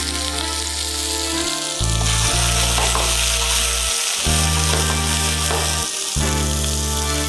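Mushrooms and new potatoes sizzling in hot oil in a frying pan as their outsides are toasted, a steady hiss throughout. The food is moved about in the pan now and then.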